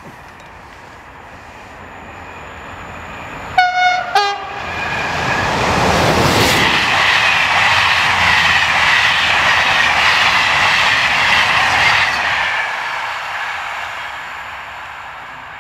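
A train passing close by: its rumble grows, it gives two short horn blasts, then runs past with wheels clattering and a wavering high tone over the rumble before fading away.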